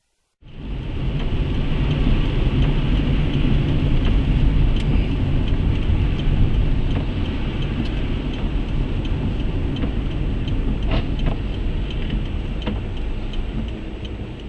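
Steady vehicle driving noise, a low engine and road rumble, with scattered small ticks and clicks; it starts abruptly about half a second in.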